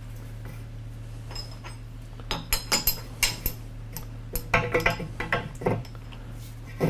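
Metal hand tools and lathe parts clinking and clanking against each other: a run of sharp, ringing metallic knocks from about two seconds in, with one more near the end.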